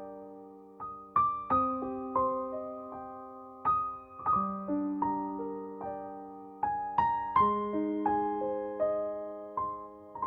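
Soft background piano music: slow arpeggiated chords, each note struck and left to ring out.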